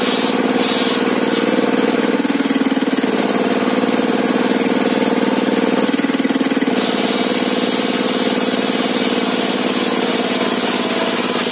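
Engine running steadily at a constant speed, the drive of a sawmill's table saw running without cutting, with slight shifts in tone every few seconds.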